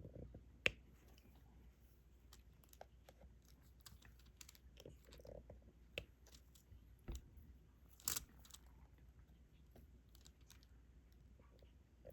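Faint, scattered clicks and taps of a diamond painting applicator pen picking up resin drills and pressing them onto the sticky canvas. A sharper click comes just under a second in, another about 8 seconds in, and a dull knock sounds around 7 seconds.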